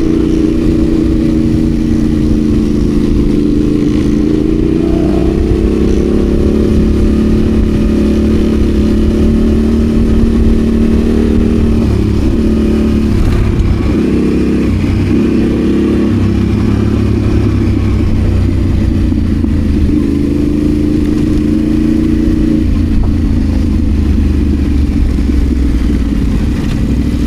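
Adventure motorcycle engine running continuously while riding off-road, its pitch rising and falling gently with the throttle, over a steady low rumble.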